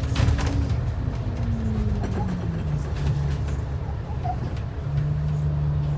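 Transit bus running, heard from inside the cabin: a steady engine drone and road rumble, with the engine note falling between about one and three seconds in and then holding steady. A few rattles or clicks near the start.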